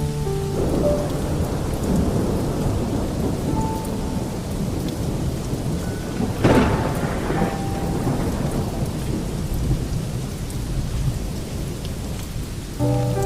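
Heavy rain falling steadily under continuous rolling thunder. About six and a half seconds in, a sharp thunderclap cracks, then rumbles away.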